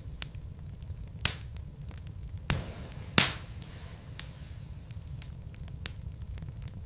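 Wood logs burning in a fireplace, crackling with scattered sharp pops over a low steady rumble of the flames; the loudest pop comes a little past three seconds in.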